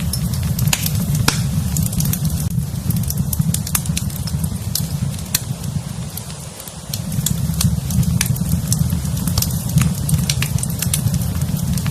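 Wood fire in a fireplace crackling, with scattered sharp pops over a steady low rumble. The rumble dips briefly a little over halfway through.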